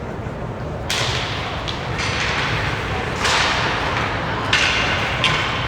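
Ice hockey skate blades scraping and carving the ice in several hissing sweeps, with a few sharp clicks of sticks or puck in between.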